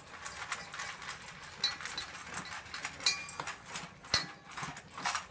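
Two dogs eating from their food bowls: a steady run of irregular crunches, clicks and clinks.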